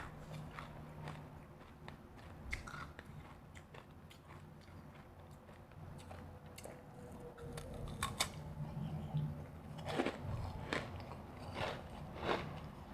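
Close-miked biting and chewing of refrozen powdery ice: soft crunching, with sharper, louder crunches coming more often in the second half.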